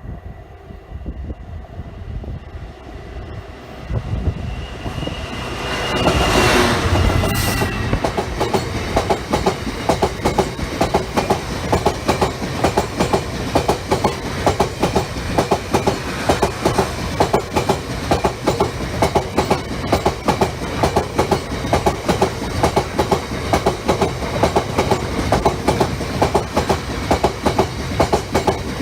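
A train approaching and passing close by: the sound builds to a loud peak about six seconds in as the front goes past, then a long run of wagons follows with a steady, rhythmic clickety-clack of wheels over the rail joints.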